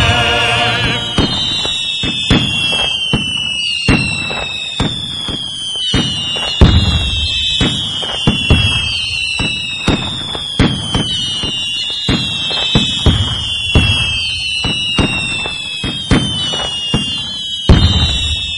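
Fireworks salute: a steady run of bangs and booms, overlaid by high whistling tones that keep sliding down in pitch.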